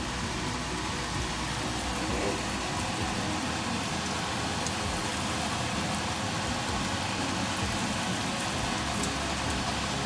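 Frozen vegetable burger patty sizzling steadily as it shallow-fries on a hot plate, with a steady low hum underneath.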